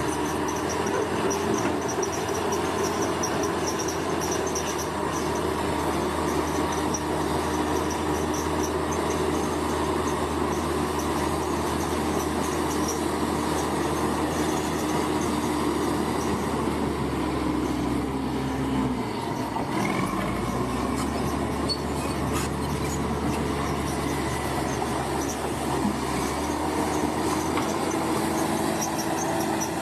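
Crawler bulldozer's diesel engine running steadily, with metallic clatter from its steel tracks. About two-thirds of the way through, the engine note drops briefly and then climbs back.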